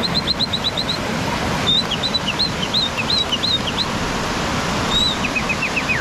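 Birdsong over a steady rushing background: a quick run of high chirps at the start, then a string of looping whistled notes, and near the end a short run of notes stepping down in pitch.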